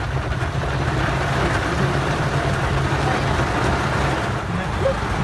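Steady drone of a moving road vehicle, an even rumble with a constant low hum.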